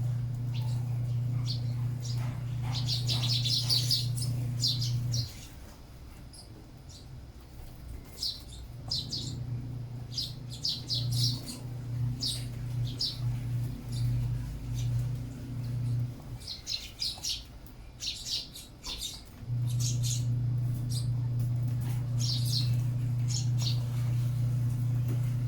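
Sparrows chirping in quick clusters of short, high chirps. Under them is a steady low hum that stops about five seconds in, comes back unevenly in the middle, and runs steadily again over the last few seconds.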